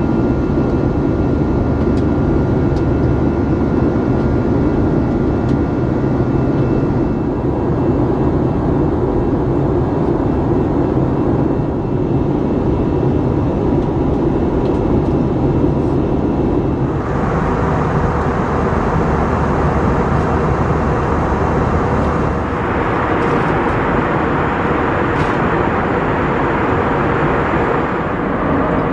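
Airbus A321 cabin noise: the jet engines and airflow make a steady rumble with faint whining tones. About seventeen seconds in the sound turns brighter and hissier, and it grows again a few seconds later.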